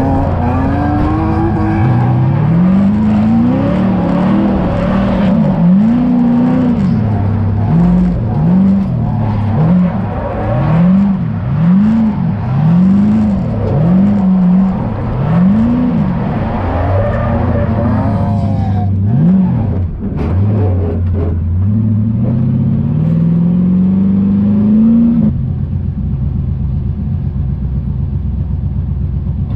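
LM7 5.3-litre LS V8 in a drift-built Mazda FC RX-7, heard from inside the cabin, revving up and down over and over, about once a second at its busiest, as the car is driven through a drift run. It then climbs in revs for a few seconds and drops to a steadier, lower running sound a few seconds before the end.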